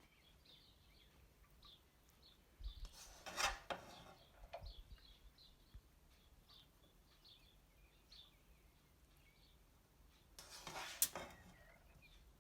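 Two brief rubbing, scraping sounds, the second ending in a sharp click, over faint bird chirps.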